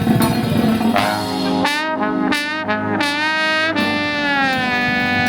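Jazz-style brass music with trumpet and trombone. It starts about a second in with a few short notes, then a long held note that wavers.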